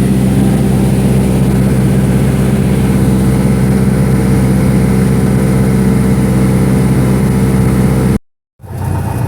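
Single-engine piston airplane's engine and propeller droning steadily at a constant power setting. It cuts out abruptly near the end for a moment, then the same kind of drone returns.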